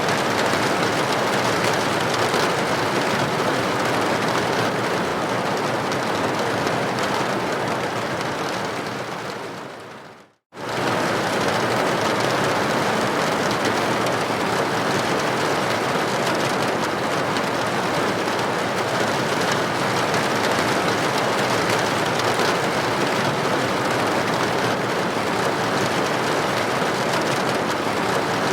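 Steady rain hissing against a building window. About ten seconds in it fades away to a moment of silence, then cuts back in abruptly at full level, like a loop restarting.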